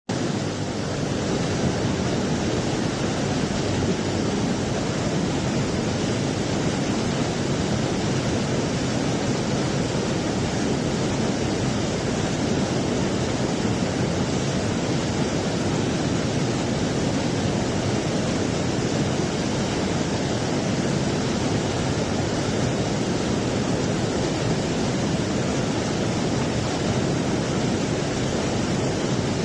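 Steady rushing water, an even roar without a break.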